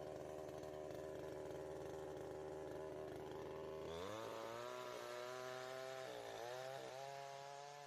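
Chainsaw engine running, its speed stepping up about halfway through and dipping briefly before settling again.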